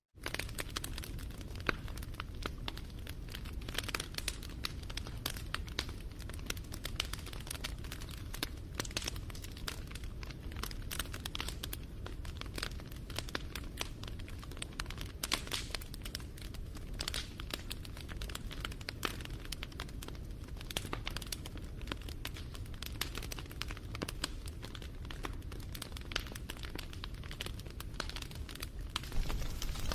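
Wood campfire crackling and popping irregularly over a low rumble of flames. The sound resumes after a momentary dropout at the very start.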